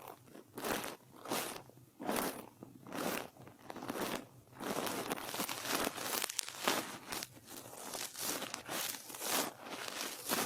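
Soft brush stroked over a microphone for ASMR, giving scratchy, crinkling swishes, separate strokes about once a second at first, then quicker and nearly continuous from about halfway through.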